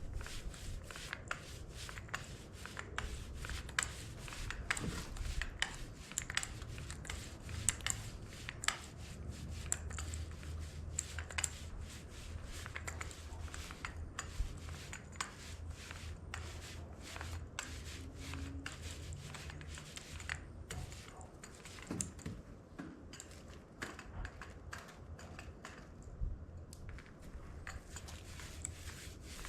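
Paint roller working paint onto a cast-iron tractor front weight: a steady run of light, irregular clicks and ticks, with a low hum underneath.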